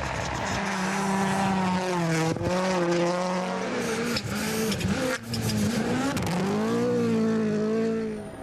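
Rally car engine at full throttle on a snow stage, its note rising and dropping through gear changes, with two sharp cracks about two and five seconds in, then fading away near the end.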